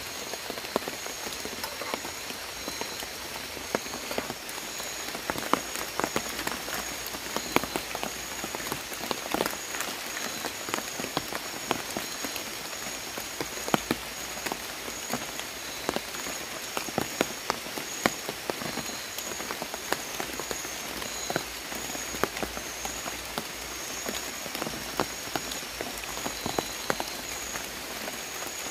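Light drizzle with many separate drop taps and ticks, over a constant high-pitched calling from forest animals.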